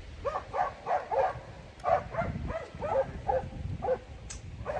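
Bear-hunting Laika dogs barking at a bay, a fast, steady run of barks at about three a second: the dogs are holding a bear that they have stopped.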